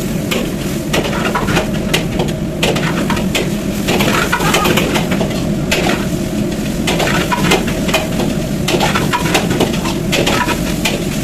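Metal utensil clanking and scraping against a wok as fried rice is tossed and stirred, many quick irregular knocks over a steady low rushing noise.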